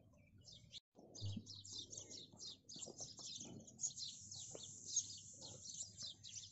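Small birds chirping and twittering, many short high calls overlapping in a continuous chorus.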